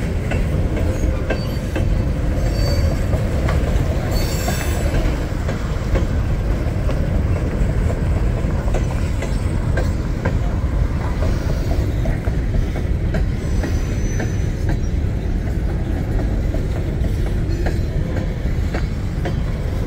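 Empty coal train rolling past: a steady rumble of the empty coal cars' wheels on the rails, with repeated clicks as the wheels cross rail joints and a few brief faint wheel squeals.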